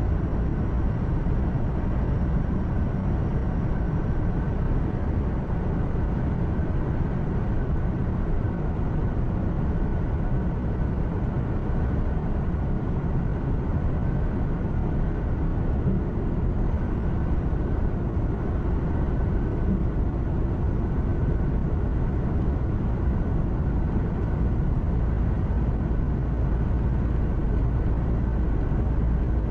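Steady low drone of a truck's engine and tyres heard from inside the cab while driving, with road noise and no sudden events.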